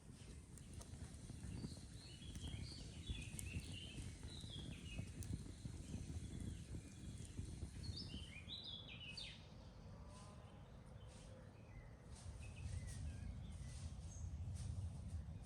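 Small birds chirping in quick clusters, a couple of seconds in and again about eight seconds in, over a low outdoor rumble with scattered light clicks.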